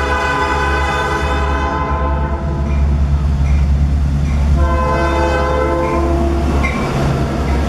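Diesel train's multi-tone horn sounding two long blasts, the first ending about two and a half seconds in and the second from about five to six seconds in, over the steady low rumble of the locomotive and rolling train.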